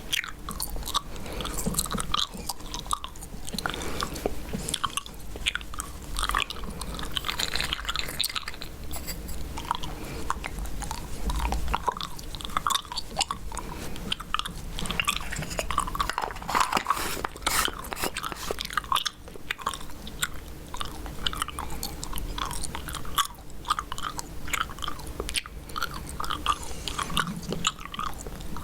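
Chewing gum chewed close to the microphone: a continuous stream of wet, clicking mouth sounds.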